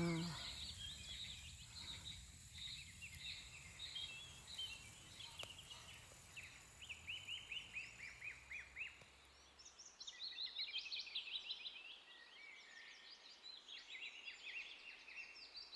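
Birds chirping in quick runs of short, downward-slurred notes, faint. A steady high-pitched tone and a low rumble sit under them and stop about halfway through.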